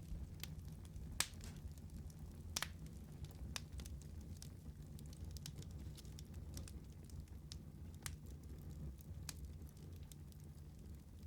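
Wood fire burning in a fireplace: irregular sharp crackles and pops, the loudest about a second in, over a soft low rumble of flame.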